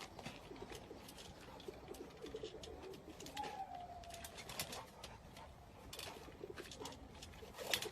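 Faint, low, wavering cooing calls of a bird, with scattered clicks and taps.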